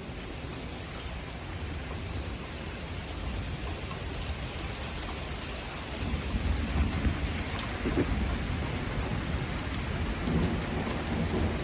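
Steady heavy rain falling during a severe thunderstorm, with a low rumble of thunder building about halfway through.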